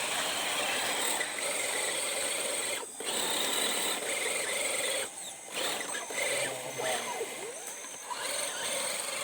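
RC rock crawler's electric motor and gear drivetrain whirring as it drives, cutting out briefly about three seconds in and again about five seconds in.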